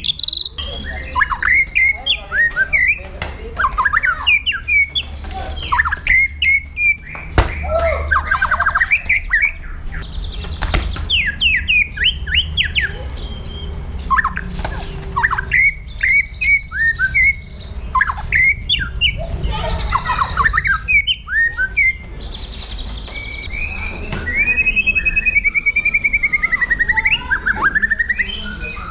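A pastol songbird singing a fast, varied run of sharp chirps and sweeping whistled notes, broken by short pauses, with a longer warbling phrase near the end. A steady low hum runs underneath.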